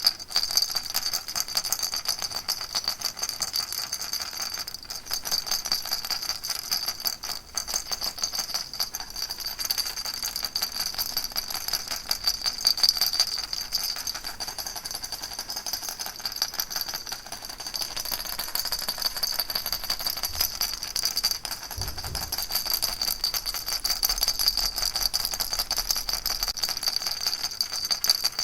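Baby rattle shaken continuously: a dense, steady rattling of many small rapid clicks with a bright ringing edge.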